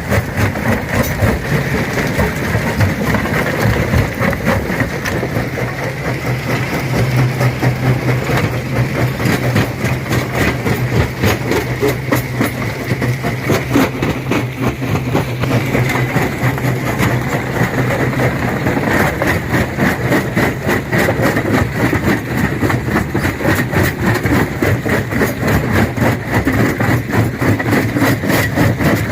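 Stone crusher running under load: a steady low machine hum with continuous rapid crunching and knocking of rock being broken.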